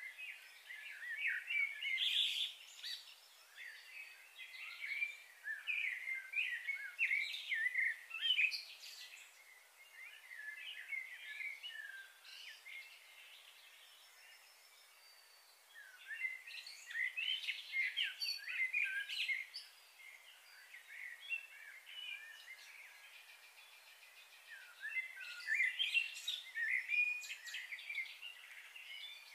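Birds chirping and singing in bouts of a few seconds, with quieter lulls in between.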